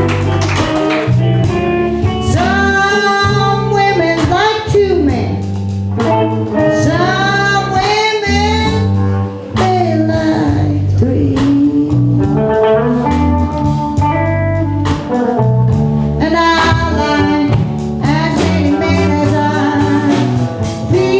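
Live blues band music: guitar and bass with a bending lead melody line over them.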